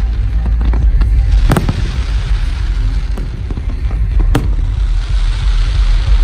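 Fireworks exploding at a display: two sharp bangs, about a second and a half in and again near four and a half seconds, with smaller pops scattered between them, over a steady low rumble.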